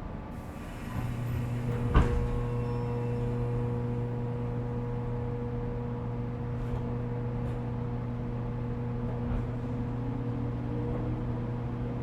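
Running sound of a 415 series electric train heard from inside the motor car beneath the pantograph, shortly after pulling away from a station. About a second in, a steady electric hum with several fixed tones comes on, and a single sharp clunk follows a second later. Near the end, a motor tone rises in pitch as the train gathers speed.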